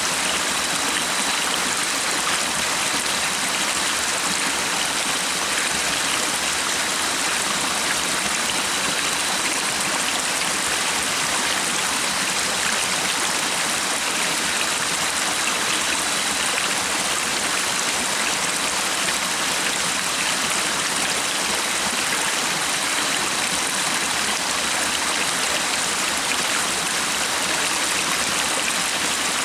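Stream water running and splashing in a steady, even rush, with a faint thin high tone held steadily underneath.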